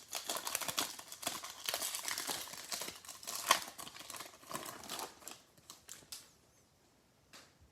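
Crinkling and clicking of a foil trading-card pack and its cards being handled, dense for about six seconds and then dying away, with one short rustle near the end.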